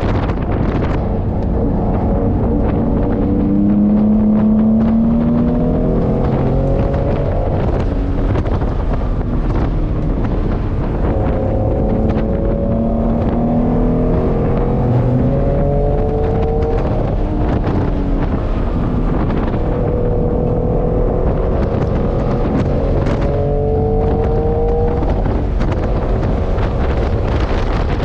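Classic sports car's engine heard from inside the cabin, its pitch climbing three times as it accelerates, over steady wind and road noise.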